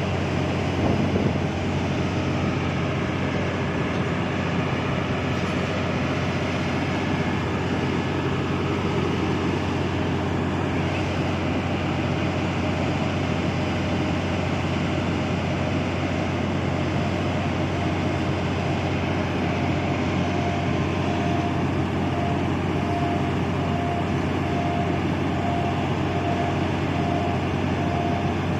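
Boat engine running steadily, a constant low drone with a strong hum. Past the middle, a faint regular beeping starts, a little more than once a second.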